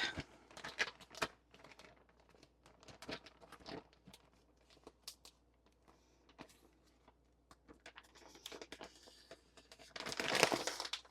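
Plastic zip-top bag crinkling and crackling as it is handled and sealed shut, with chicken thighs and marinade inside. It is quiet and intermittent, with a louder stretch of crinkling about ten seconds in.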